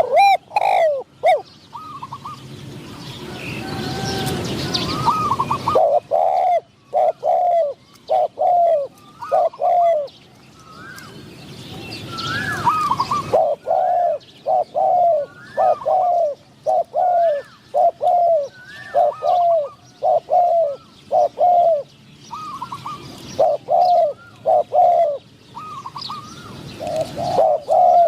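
Spotted doves cooing in repeated short phrases, one lower-pitched and one higher, calling back and forth. A low rushing noise is heard in the first few seconds and again around twelve seconds in.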